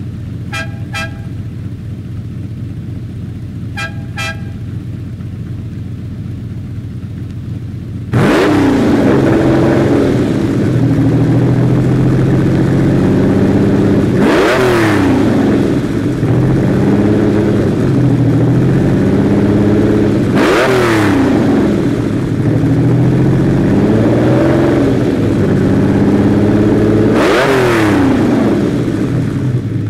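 Lamborghini Countach V12 idling, with two pairs of short beeps in the first few seconds. About eight seconds in the engine suddenly opens up and the car accelerates hard, its pitch climbing through each gear and dropping at three upshifts about six seconds apart.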